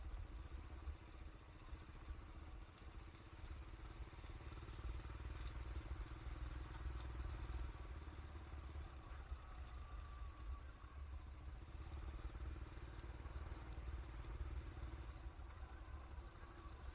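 Steady low rumble of a moving vehicle, with a faint steady engine hum over it.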